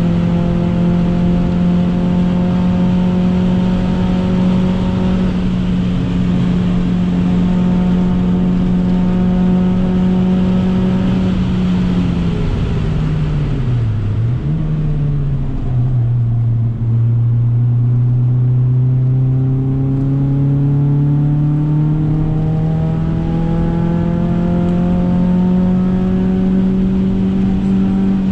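Renault Clio 2 172 RS's 2.0-litre four-cylinder engine, heard from inside the cabin, held at high revs. About twelve seconds in the revs fall off with a short blip. They then climb steadily for about ten seconds under acceleration.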